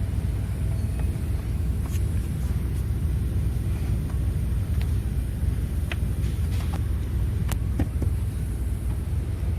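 A 2021 Chevrolet Tahoe or GMC Yukon engine running with a steady low rumble, with a few light clicks at irregular moments.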